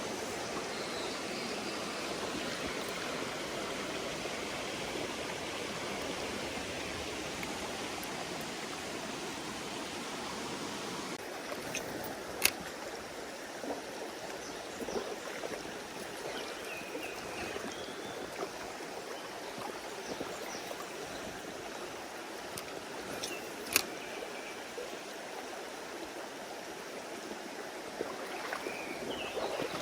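A mountain stream rushing and splashing steadily. Two sharp clicks stand out above it, about 12 seconds in and again about 24 seconds in.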